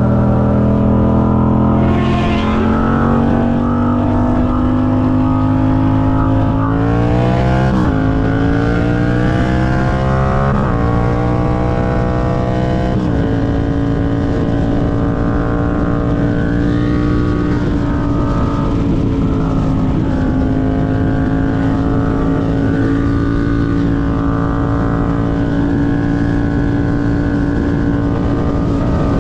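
Motorcycle engine running under way, its pitch climbing slowly with brief dips about 8 and 11 seconds in, then holding nearly steady at a cruising speed.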